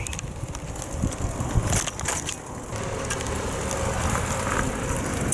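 Wind rumbling on the microphone while riding a bicycle, with scattered rattles and clicks.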